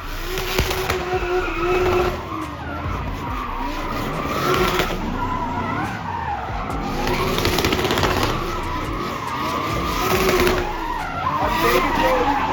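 Drift car's engine revving up and down repeatedly while its tyres squeal and skid through a slide.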